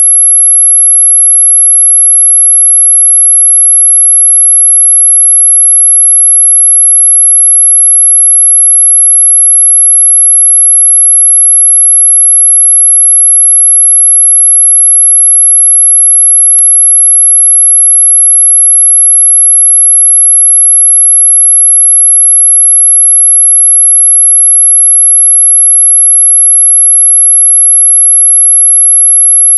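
A single steady, very high-pitched electronic sine tone, played as a mosquito-repelling sound. It holds one unchanging pitch, with a faint click about halfway through.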